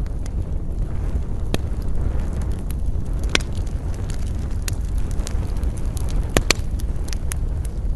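Campfire of wood burning, crackling and popping with sharp snaps, the loudest a little past three seconds in and a close pair at about six and a half seconds, over a steady low rush of wind.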